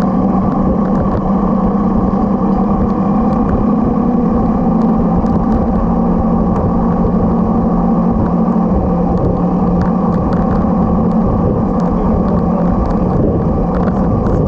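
Motorcycle engine running steadily at road speed. Its pitch rises slightly about four seconds in and eases back down a few seconds later, over a constant low rumble of wind and road noise.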